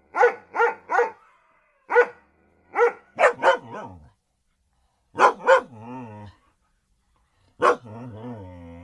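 Angry dogs barking in short, sharp barks, singly and in quick pairs and triples. Two barks are followed by a low, wavering growl, the second one near the end.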